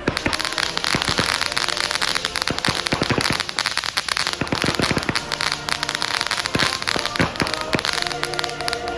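Consumer fireworks going off: a dense crackle of many sharp pops that starts suddenly and keeps on, with louder bangs scattered through it.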